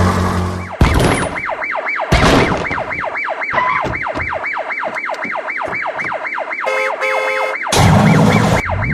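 Police-style yelp siren, its pitch sweeping up and down fast, about three times a second. A horn-like steady tone sounds briefly about three-quarters of the way through, and short bursts of engine noise come near the start and the end.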